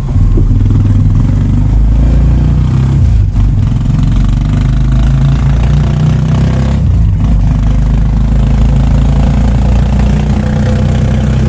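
Motorcycle engine of a tricycle running steadily under way, heard from inside its sidecar; the engine note shifts twice, around three and seven seconds in.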